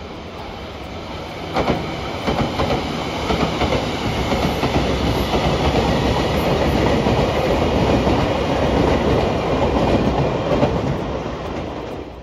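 A JR Kyushu electric train passing at close range, its wheels clacking over rail joints, getting louder through the middle and easing off near the end.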